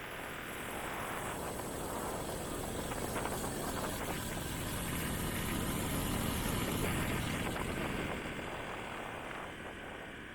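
Motorbike riding noise, engine and road rush together, that swells over several seconds, is loudest about two thirds of the way through, then fades.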